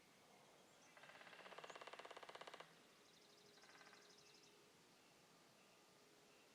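Woodpecker drumming on wood: a rapid, evenly spaced roll of strikes lasting under two seconds, about a second in, followed by a fainter, shorter roll from farther off.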